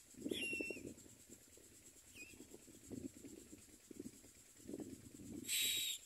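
Short bird calls that dip in pitch, one about half a second in and a fainter one near two seconds, over irregular low rumbling. A loud burst of hiss near the end.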